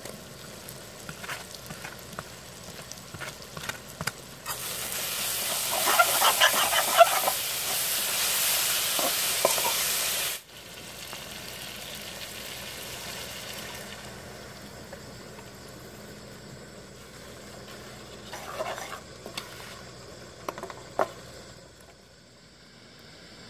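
Chicken curry masala sizzling and crackling in a hot aluminium kadai while it is stirred. About four seconds in, a loud frying sizzle starts; it cuts off suddenly about six seconds later, and a quieter steady hiss follows. A few short spoon scrapes in the pan come near the end.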